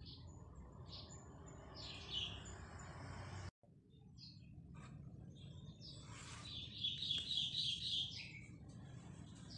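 Birds chirping in the background over a low steady hum, with a quick run of repeated high chirps about two-thirds of the way through. The sound drops out completely for an instant about a third of the way in.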